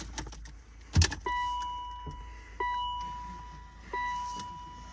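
Key click in the BMW Z3's ignition, then the car's warning chime: a single fading tone repeated about every 1.3 seconds, four times, with the engine not yet running.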